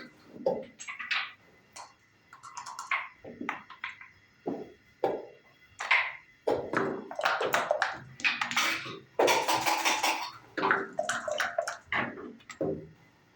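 Backgammon being played: dice rattled in cups and thrown onto the board, and checkers clacked down and slid into place, making a quick irregular run of clicks and knocks with a couple of longer rattles.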